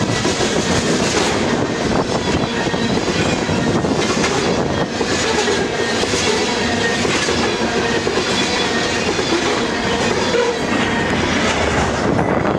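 Freight train of tank cars rolling steadily past, the steel wheels clicking over rail joints over a constant rumble.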